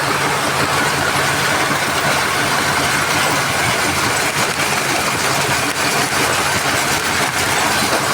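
Heavy machinery running steadily: a diesel engine's constant low note under a loud, even mechanical din, with no change in pace.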